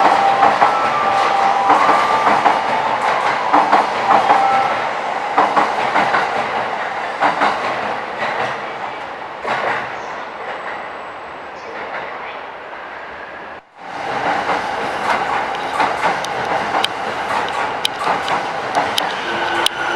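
Electric commuter trains moving along the platform tracks, wheels clacking over rail joints, with steady squealing tones in the first few seconds. The sound fades, cuts off abruptly about 14 seconds in, then resumes as another train runs with the same clatter.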